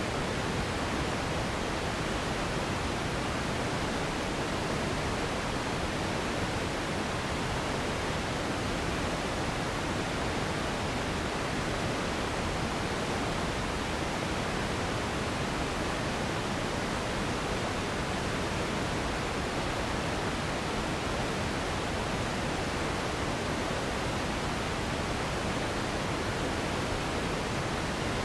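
Steady sleep noise: an even, unchanging hiss spread from the deep lows up through the treble, softer in the very highest part.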